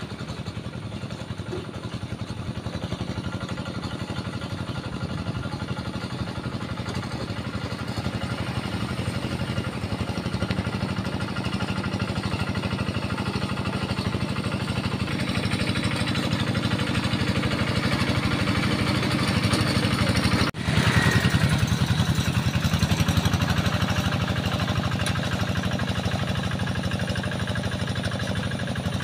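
Tractor engine running steadily under load while ploughing a rice paddy, growing gradually louder and cutting out for an instant about two-thirds of the way through.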